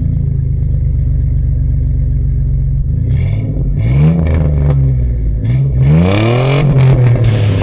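2001 Chevy S-10's 4.3 litre Vortec V6 idling through a 3-inch exhaust, with the main cat cut out, into a single muffler. It is revved twice, about four and six seconds in, the pitch rising and falling back to idle each time.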